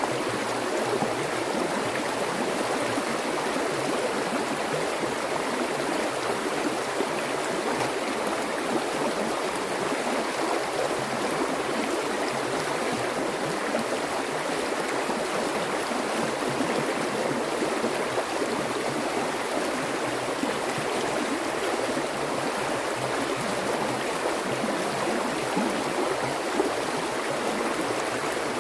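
Water flowing steadily in a stream, an even rushing with small gurgles and splashes.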